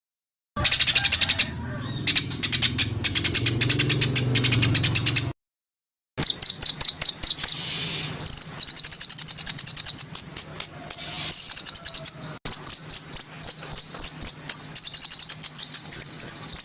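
Songbird calls made into a bird-training (masteran) track for cage birds. Rapid harsh repeated chips and shrill rising notes come in several spliced segments that start and stop abruptly.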